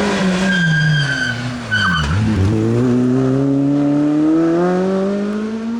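Rally car engine coming off the throttle, its pitch falling into a sharp dip about two seconds in, with two short high-pitched tyre squeals. The engine then accelerates hard, its pitch rising steadily.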